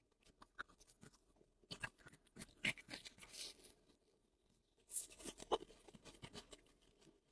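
Close-miked mouth sounds of someone chewing intestine: irregular wet clicks and smacks in bursts, with a short pause about halfway through.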